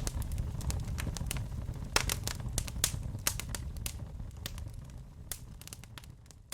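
Wood fire in a fireplace crackling, with frequent sharp pops over a low rumble, fading out toward the end.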